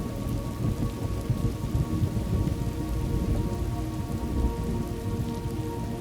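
Thunderstorm ambience: steady rain falling, with a continuous low rumble of thunder.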